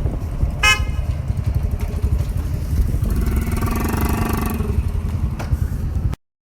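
Riding a motorcycle: engine rumble and wind buffeting on the microphone, with a short horn toot about a second in and a pitched hum in the middle. The sound cuts off abruptly near the end.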